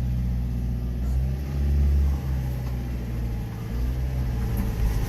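Subaru Sambar 4WD mini truck's engine running as the truck backs out in reverse, swelling briefly about two seconds in.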